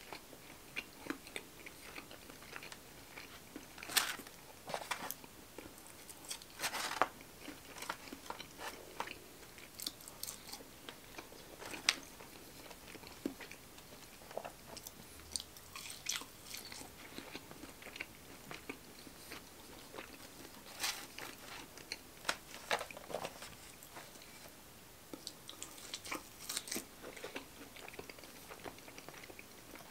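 Close-miked chewing of breaded chicken fingers and crinkle-cut fries: irregular crisp crunches and crackles from the mouth, the sharpest a few seconds in and again near the middle.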